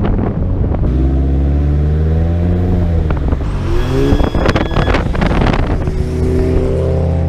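Car engine pulling under acceleration, its pitch climbing, falling at a gear change about three seconds in, then climbing again. A run of sharp clicks sounds midway.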